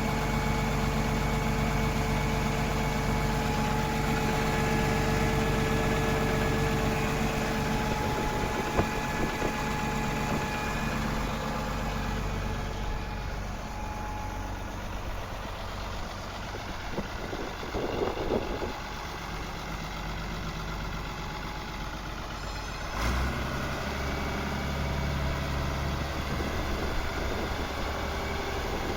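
Fiat F100 DT tractor's diesel engine running at a steady idle. Its low note shifts abruptly about two-thirds of the way through.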